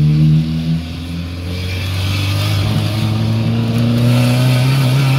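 Fiat Uno's engine through a straight-pipe exhaust, running loud, then revving up gradually with a slowly rising pitch from about two seconds in.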